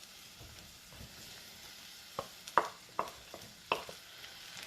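Onions and mushrooms sizzling faintly in butter and oil in a saucepan, with a utensil knocking against the pan about five times in the second half as they are stirred.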